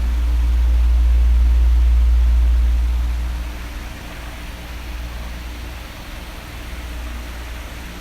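Oscillating electric fan running: a steady airy hiss with a faint motor hum, and a deep rumble of moving air that swells over the first few seconds and then drops away.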